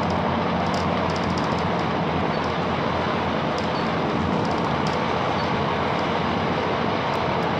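Great Western Railway Class 165 diesel multiple unit running between stations: a steady rumble of wheels on track over a low hum, with faint high ticks scattered through it.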